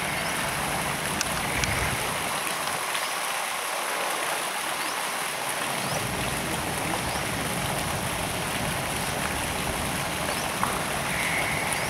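Steady rain falling on a swimming pool's water, a continuous hiss with a few sharp drop ticks here and there.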